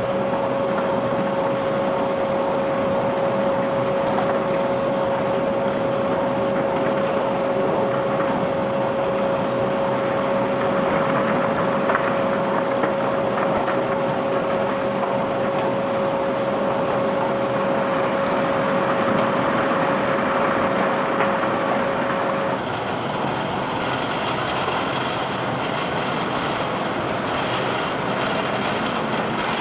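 Ship-unloading conveyor belt machinery running steadily under a load of bulk cargo, with a steady whine that cuts off about three quarters of the way through while the running noise carries on.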